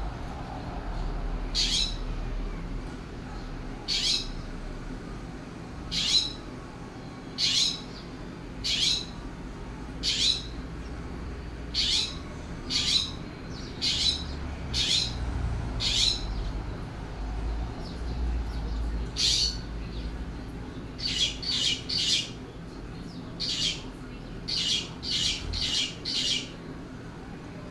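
California scrub jay calling: a series of short calls, one about every second and a half, then after a brief pause a quicker run of calls near the end.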